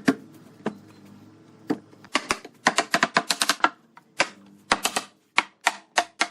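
Sharp taps, a few single knocks at first, then quick bursts of several strikes in a row, each with a short ring.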